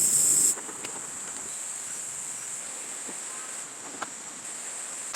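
Insects chirring in a steady high drone, much louder for the first half second, over a faint hiss of background noise.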